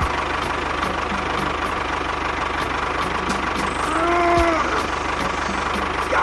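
An engine idling steadily with an even low rumble. About four seconds in, a short pitched tone rises and falls over it.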